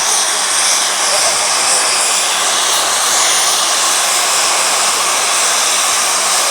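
Steam locomotive letting off steam in a loud, steady hiss.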